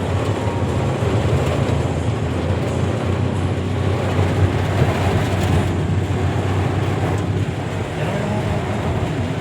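Steady road and heavy-rain noise inside a moving car: a low rumble under a dense hiss of rain on the car.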